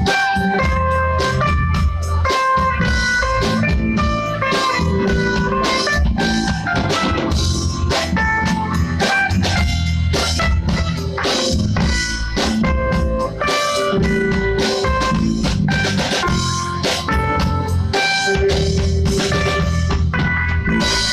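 Rock band playing an instrumental passage: a picked guitar melody over bass and a steady drum-kit beat.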